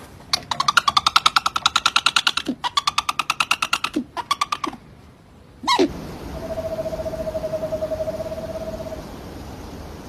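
Bird of prey calling: three bursts of rapid, rattling pulsed calls, then about three seconds later a long, even trill on one steady pitch.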